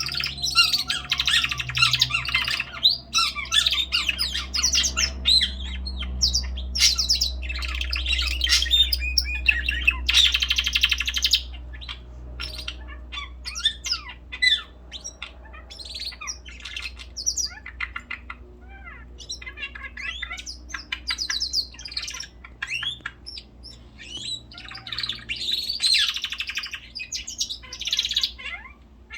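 Pet birds chirping and squawking, several calling over one another. The calls are a dense chatter for the first dozen seconds, then thin to scattered chirps and thicken again near the end.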